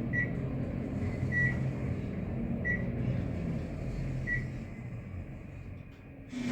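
Ride noise inside a Dover traction elevator car: a steady low hum and rumble, with four short high beeps about every second and a half. The hum dies down near the end.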